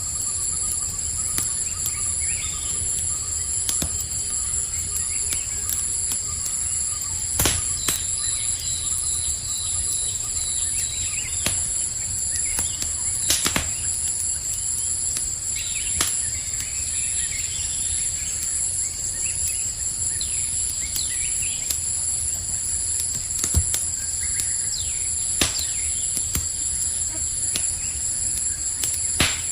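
Campfire crackling with scattered sharp pops over a low rumble, set against a steady high trilling of crickets, with occasional faint bird chirps.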